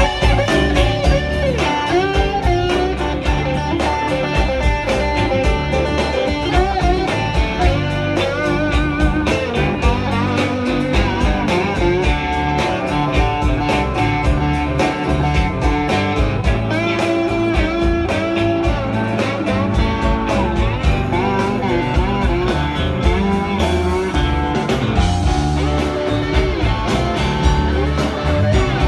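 Electric blues band playing an instrumental break: a lead guitar bends and runs notes over bass and a steady drum beat.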